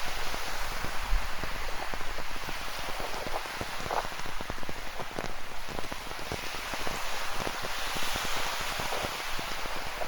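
Rain falling, with many close drops striking in quick irregular ticks, over a steady wash of ocean surf that swells briefly near the end.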